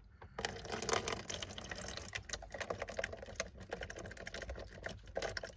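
A cat lapping water: a quick, uneven run of small wet clicks, the sound of a very thirsty cat drinking.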